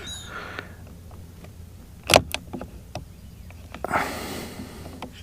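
Hand work on small parts: two sharp clicks about two seconds in, then a stretch of scraping and rustling near the end, with a brief high squeak at the very start.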